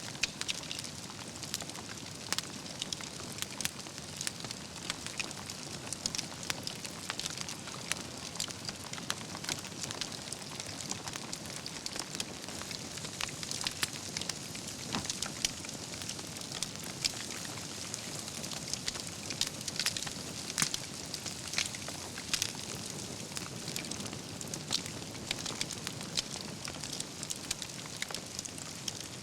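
Wood fire burning steadily: logs crackling with frequent sharp pops and snaps of embers over a soft constant hiss of the flames.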